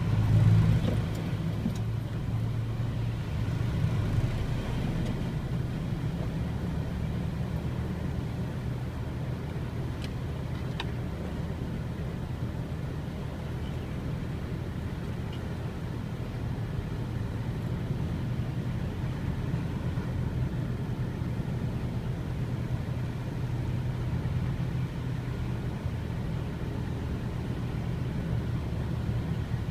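Motor vehicle engine running steadily as a low hum, louder over the first few seconds.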